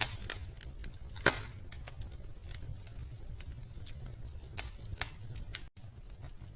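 Wood fire crackling in a fireplace: scattered sharp snaps and pops over a low steady rumble of the flames, with one loud pop about a second in.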